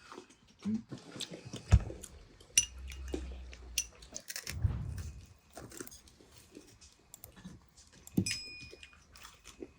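Tableware being handled at a tea table: scattered clicks and knocks, a sharp knock about two seconds in, and a short glassy clink near the end.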